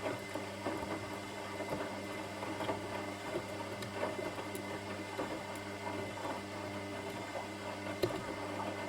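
Washing machine running: a steady motor hum with irregular light knocks and patter as the drum turns, and a sharper knock about eight seconds in.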